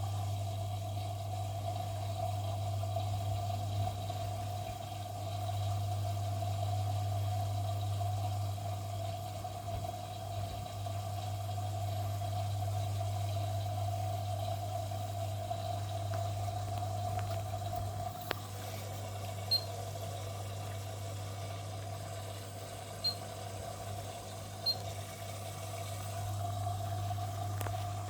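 Washing machine running with water flowing in, a steady low hum under a steady mid-pitched tone, with a few faint clicks in the second half.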